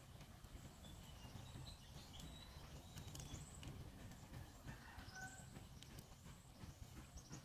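Near silence with faint bird chirps, a few short high calls in two spells, over a low steady background rumble.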